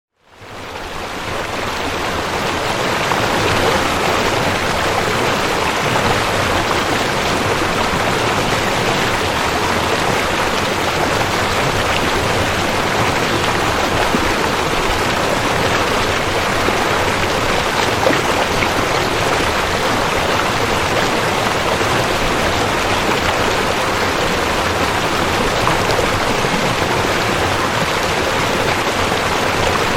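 Waterfall: a steady rush of falling water, fading in over the first few seconds.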